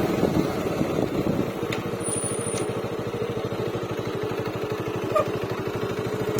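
Bajaj Avenger Cruise motorcycle's single-cylinder engine running, busier for the first second and a half, then settling into an even idle of steady exhaust pulses, about ten to twelve a second.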